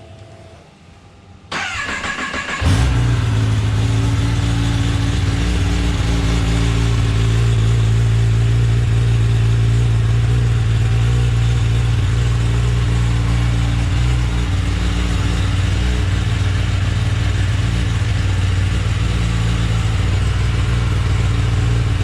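Kawasaki ZX-10R's inline-four engine cold-started on its stock exhaust: the starter cranks for about a second, the engine catches, then runs at a steady idle.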